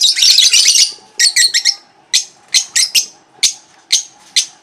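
A flock of caged lovebirds calling: short, shrill chirps repeated about twice a second, with a dense burst of chattering squawks in the first second.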